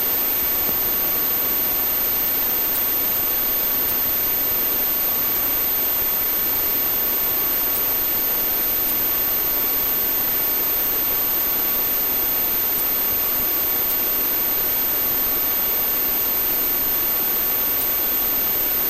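Steady, unchanging turbine and rotor noise of a police helicopter, heard in flight as an even hiss with faint constant tones.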